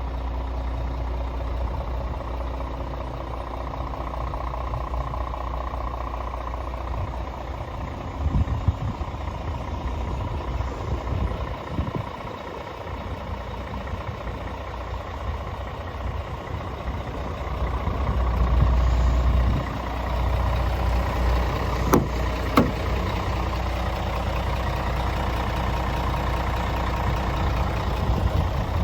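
Scania R450 truck's 13-litre straight-six diesel idling steadily, with two sharp clicks about half a second apart a little past the middle.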